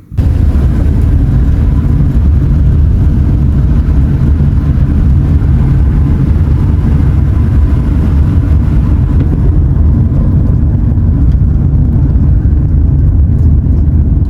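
Loud, steady low rumble of a vehicle engine running, cutting in and out abruptly at the start and end.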